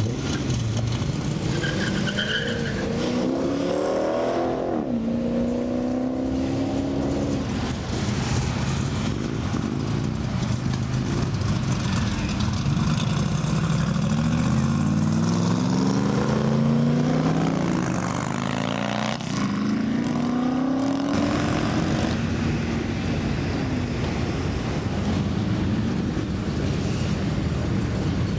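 Cars driving past one after another, engines accelerating with rising pitch a few seconds in and again through the middle, over a steady rumble of other idling and moving vehicles.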